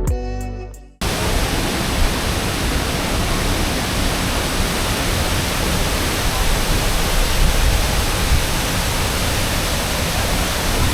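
Tinago Falls close by: falling water making a steady, dense rushing noise that comes in about a second in, as background music fades out.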